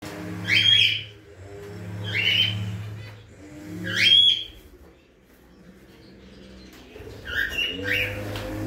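Cage birds calling: three loud, short chirping calls in the first half and more near the end, over a low droning hum that rises in pitch near the end.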